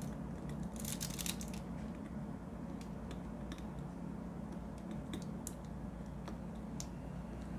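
Light, irregular clicks and taps of diamond-painting work, small plastic drills being picked up and pressed onto the canvas, over a low steady hum.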